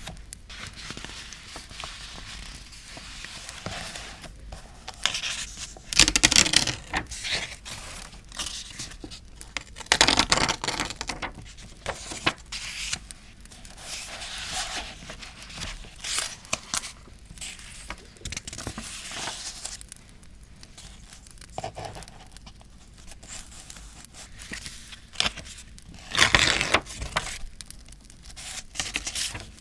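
Paper being handled for scrapbooking: rustled, torn and crinkled close to the microphone, with louder rustles about six, ten and twenty-six seconds in. Campfire crackle runs underneath.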